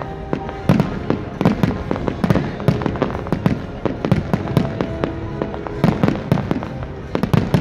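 Fireworks bursting in quick succession, a dense run of sharp bangs and crackles, over the show's music with long held notes.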